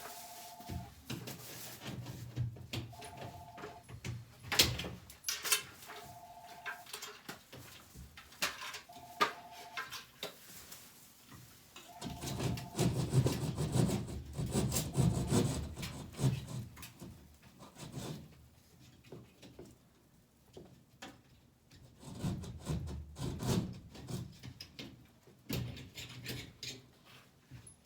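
Rubbing and scraping of hand work, with scattered clicks and knocks; the scraping gets louder for a few seconds just after the middle and again near the end. A short two-tone electronic beep repeats about every three seconds through the first half, then stops.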